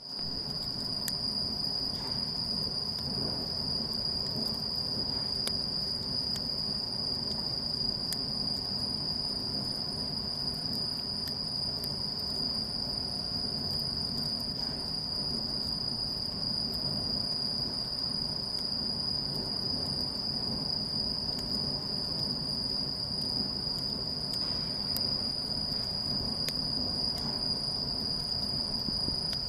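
Insects chirring in one unbroken high trill, with a low rumble and a few faint crackles from a log campfire.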